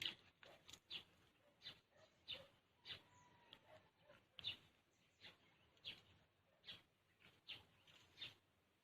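Near silence, broken by faint short crunches about one or two a second, in a walking rhythm: footsteps on dry ground littered with dead leaves.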